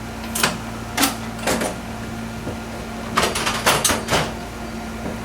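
Steady low electrical hum inside an old Fukui Railway 200-series railcar, with a scatter of sharp clicks and knocks: single ones about half a second, one second and one and a half seconds in, then a quick cluster of them about three to four seconds in.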